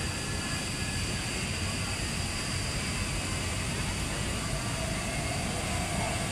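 Steady low rumbling outdoor noise with a thin, steady high-pitched tone above it and a few faint bird calls, one of them near the end.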